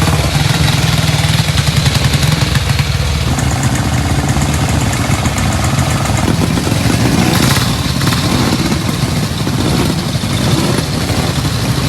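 A vehicle engine running steadily at a low, even speed, its note shifting slightly about three seconds in.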